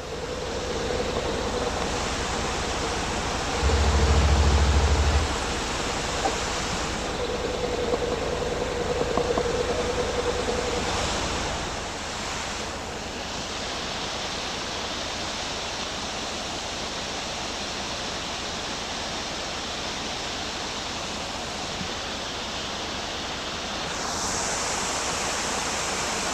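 Waterfall rushing over rocks: a dense, steady rush of water, with a brief low rumble about four seconds in.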